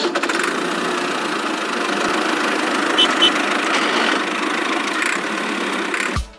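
A small engine running steadily, with two short high chirps about halfway through, then cutting off abruptly near the end.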